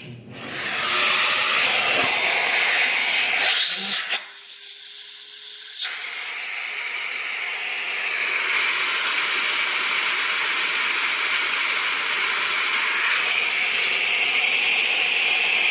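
Central vacuum drawing air through a Hide-A-Hose retractable hose, a steady rushing hiss that starts just after switch-on. About four seconds in it drops for about two seconds to a faint steady whistle, then comes back and holds steady. Through the partly retracted hose it pulls almost half less suction than at the unit.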